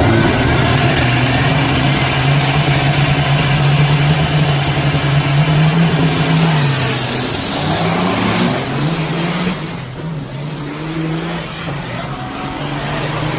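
Semi-truck diesel engine running hard under load, with a steady pitch for most of the stretch. About ten seconds in it eases off and gets quieter, then the pitch climbs slowly again near the end.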